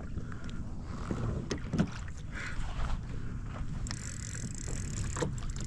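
Water moving against a fishing kayak's hull with wind on the microphone and scattered small knocks; a steady hiss joins about four seconds in.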